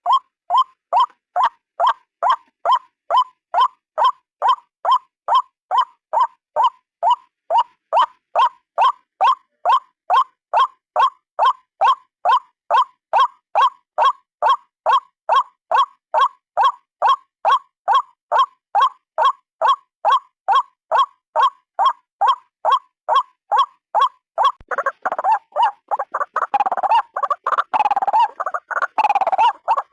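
White-breasted waterhen (ruak-ruak) calling: a steady, evenly spaced series of short single notes, about two or three a second. About 25 seconds in it breaks into a faster, jumbled run of overlapping calls.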